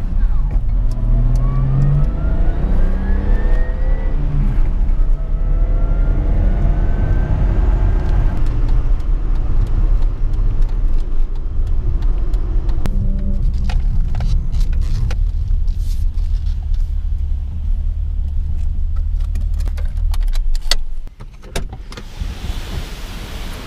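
A 1989 BMW 325i's M20 2.5-litre straight-six engine heard from inside the cabin while driving. Its pitch rises several times as the car accelerates through the gears, then it runs steadily; the sound drops off sharply near the end.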